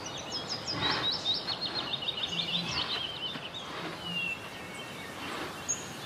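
A songbird singing a quick run of repeated high notes that step down in pitch, lasting about three seconds, followed by a single short whistle, over a steady outdoor background hiss.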